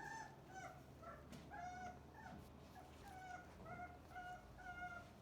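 Cane Corso puppies whimpering in a steady run of short, high cries, about two or three a second, several of them falling in pitch.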